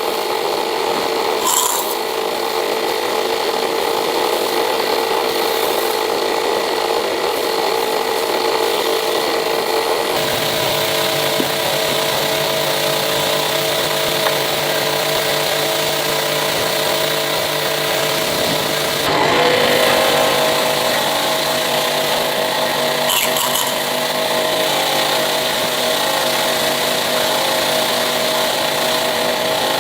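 Power tool running steadily, its pitch shifting suddenly about ten seconds in and again near twenty seconds.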